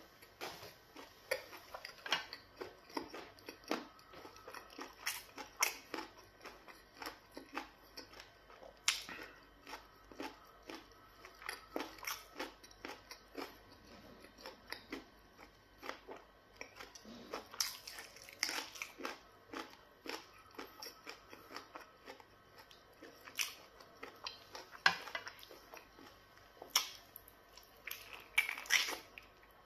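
Close-miked chewing and wet lip smacks of a man eating pounded yam fufu with black soup by hand, in a long string of short, irregular smacks.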